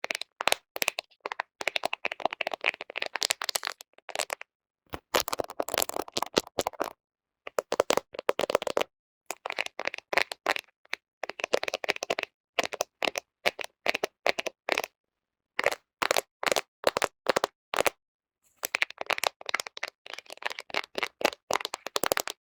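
Fingernails tapping and scratching directly on a smartphone camera: quick runs of sharp clicks and scrapes close on the microphone. They come in bursts a second or two long with short silent gaps between.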